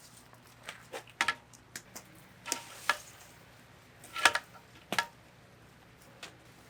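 A run of irregular light clicks and knocks, a few of them ringing briefly like small hard objects clinking together, with the loudest knock a little after four seconds in.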